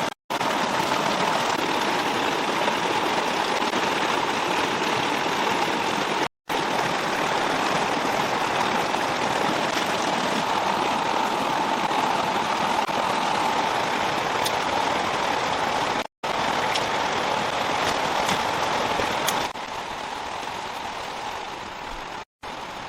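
Heavy rain pouring steadily, broken by three brief cuts and quieter for the last few seconds.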